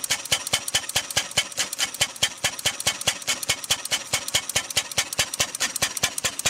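Benz Patent-Motorwagen's single-cylinder engine running at idle, its horizontal flywheel spinning, with an even, rapid clatter of clicks.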